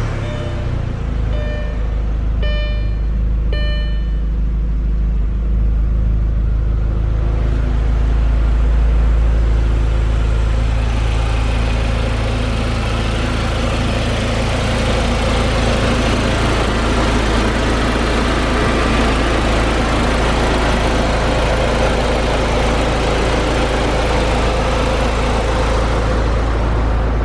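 Audi A4 1.8T quattro's turbocharged 1.8-litre four-cylinder engine idling steadily just after being started. A few short electronic beeps sound in the first four seconds.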